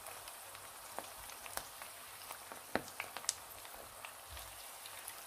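Battered kohlrabi leaves shallow-frying in hot oil: a soft, steady sizzle with scattered pops and crackles.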